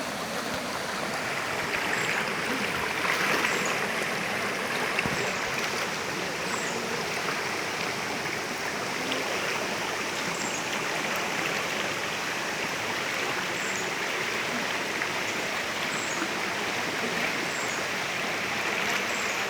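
Stream of water flowing, a steady rushing.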